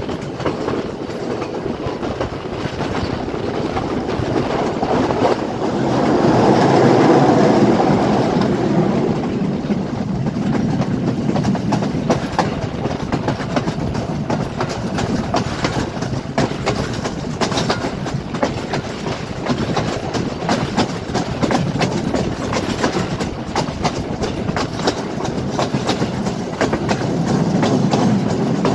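Passenger train rolling past, its wheels clattering over the rail joints in a rapid, continuous clickety-clack over a steady rumble. It swells louder about six seconds in.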